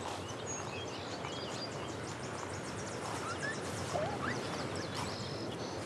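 Several wild birds singing over a steady outdoor rushing noise: a fast, high, ticking trill through the first half, then a few short rising whistled notes about the middle.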